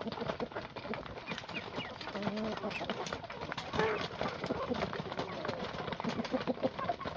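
A flock of farm chickens clucking and calling, with a dense scatter of short ticks and taps among the calls.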